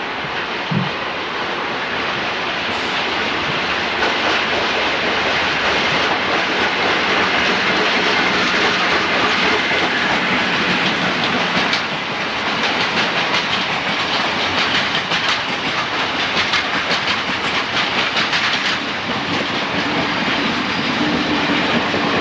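Japanese National Railways train running past on the line, with a steady rumble and hiss and a quick run of wheel clatter over the rail joints in the middle of the passage.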